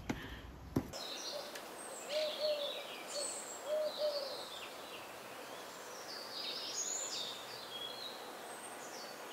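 Wild birds calling: scattered high chirps and twitters, with a few short, low calls in pairs about two to four seconds in.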